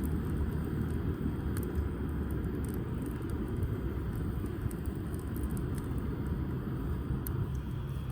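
Wood fire burning in a fire pit, with sparse sharp crackles and pops from damp firewood over a steady low rumble.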